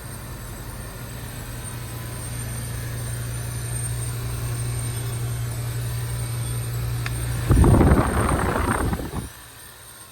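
York Olympian (Latitude) heat pump compressor humming steadily and slowly growing louder during defrost. About seven and a half seconds in comes a loud rushing whoosh of refrigerant lasting about two seconds, typical of the reversing valve shifting back to heating at the end of the defrost cycle, and then the unit goes much quieter.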